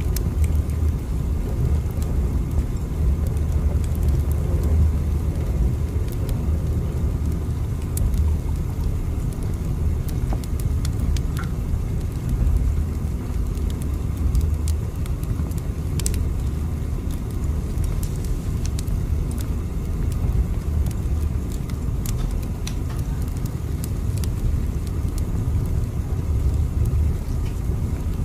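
Steady low rumble of a moving train, with a few faint scattered clicks.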